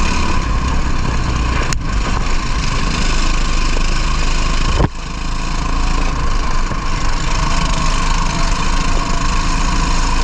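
Racing kart engine running hard, heard close up on an onboard camera, a dense steady rasp. A sharp click about two seconds in and another about five seconds in.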